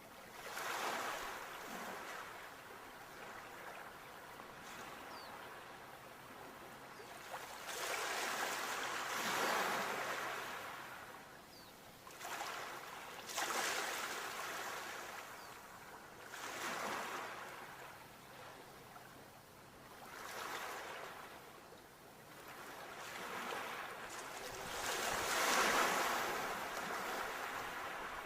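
Sea waves washing onto the shore, about six of them, each rising to a hiss and then fading as it draws back.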